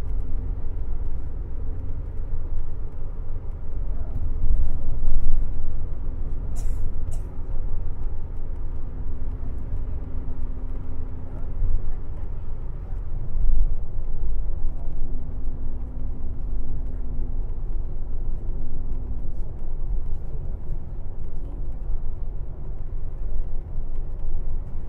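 Airport limousine coach running on the road, heard from inside the cabin: a steady low rumble of engine and road noise with an engine hum that fades in and out, and a couple of brief clicks about seven seconds in.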